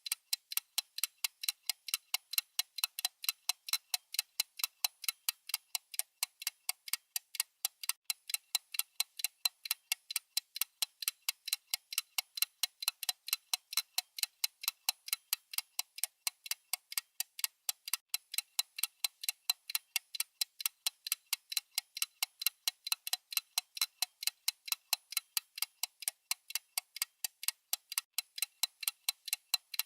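Clock-ticking sound effect: quick, perfectly even, bright ticks, several a second, keeping time for a countdown timer.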